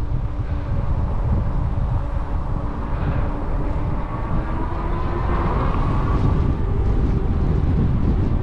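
Wind rumbling steadily over the microphone of a moving e-bike, with a faint whine that rises slightly around the middle.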